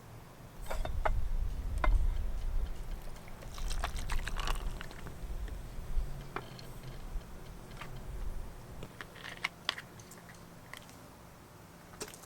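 Scattered small clicks and knocks over a low rumble that fades out after about eight seconds.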